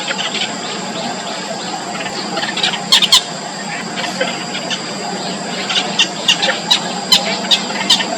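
Nestling birds' short, sharp, high-pitched begging cheeps, scattered irregularly, with the loudest pair about three seconds in, over a steady background hiss.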